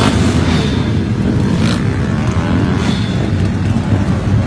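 Loud, steady rumble of motor vehicle engines, with wind on the microphone.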